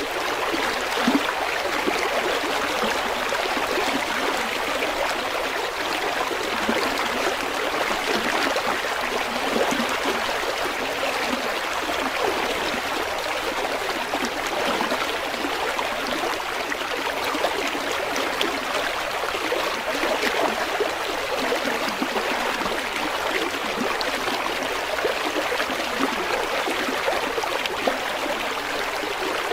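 River water running over rocks: a steady rushing and babbling with small splashes.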